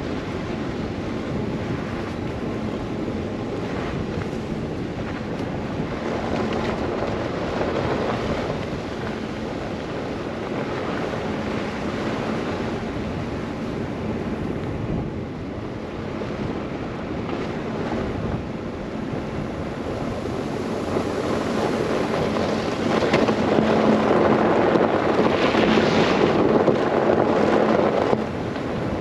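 Blizzard wind blowing with a steady rushing noise. Roughly five seconds from the end it swells into a louder gust, which cuts off suddenly just before the end.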